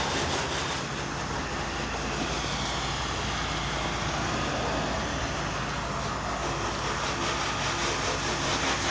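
Water spraying steadily from a hose as a car is rinsed off, over a steady low mechanical hum.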